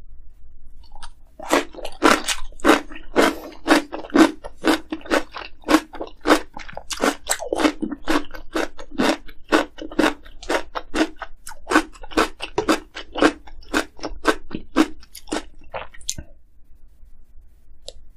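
Close-miked crunchy chewing of kimchi, with crisp crunches at about three a second that stop a couple of seconds before the end.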